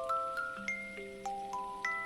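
Music box playing a slow lullaby melody: single plucked metal notes, several a second, each ringing on and fading under the next.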